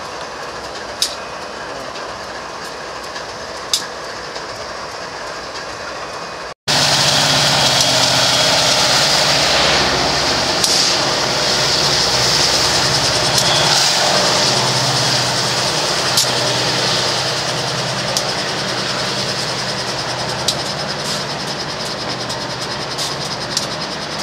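BNSF diesel locomotives running, a steady rumble with a couple of sharp ticks. About six seconds in, the sound cuts and comes back much louder: a train of loaded coal hoppers rolling past with a low diesel engine drone and the rush of wheels on rail, slowly easing off.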